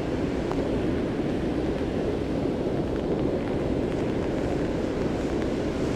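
Steady low rushing roar of water pouring over a river spillway, running high after heavy rain.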